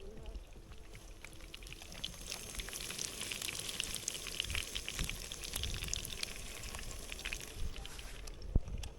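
Liquid being poured in a steady, crackly trickle for several seconds, easing off near the end.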